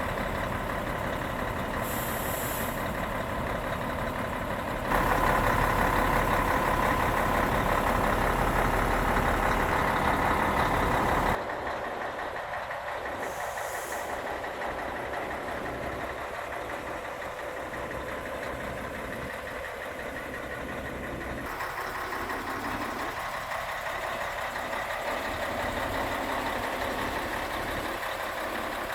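Scania 113H truck's 11-litre straight-six diesel engine running steadily, in several cut-together takes: it is louder from about five seconds in and drops back about eleven seconds in.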